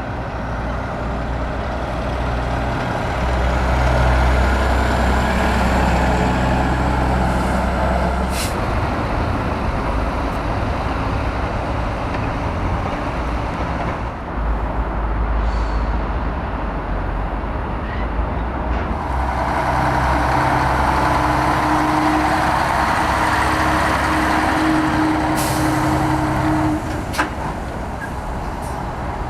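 Heavy diesel trucks driving past, their engines running with a deep steady drone that grows louder twice as trucks pass. There are two short air-brake hisses, one about a third of the way in and one near the end.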